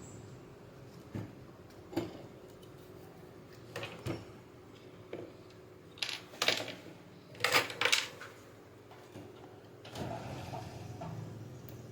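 Small hand tools clicking and scraping on a circuit board at a workbench: a dozen short irregular knocks and scrapes, the loudest bunched in the middle, over a faint steady hum.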